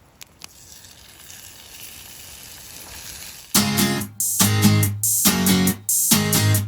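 Background music of strummed acoustic guitar chords, struck in a regular rhythm with short gaps, coming in loudly about three and a half seconds in. Before it, a faint hiss slowly swells, with a couple of small clicks at the start.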